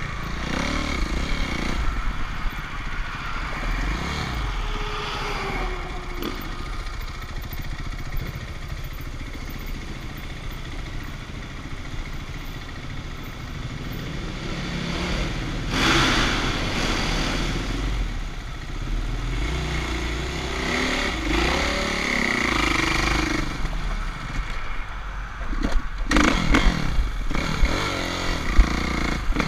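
Dirt bike engines revving, the pitch rising and falling as the bikes speed up and slow down, louder about halfway through and again near the end.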